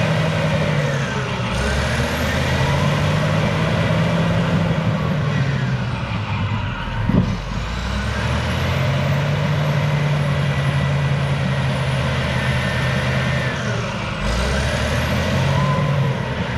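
Cat D6H bulldozer's diesel engine working under load while clearing trees, its note dropping and rising several times as the operator works the machine. There is a sharp knock about seven seconds in and a faint whine that glides up and down.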